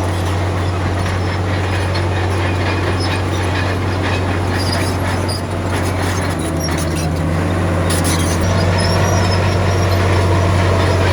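Komatsu D53P bulldozer's diesel engine running steadily, with scattered metallic clanking of tracks and stone. The engine gets a little louder about eight seconds in.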